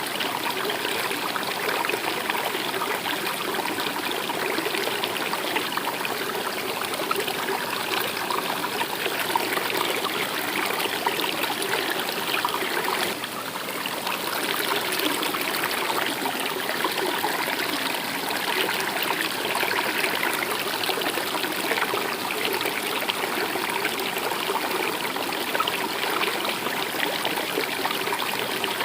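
Stream water flowing and trickling over stones, steady and even, briefly a little softer about thirteen seconds in.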